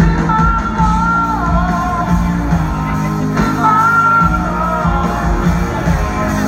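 Rock band playing live: a male lead singer holds long, sliding sung notes over electric guitar, bass and drums.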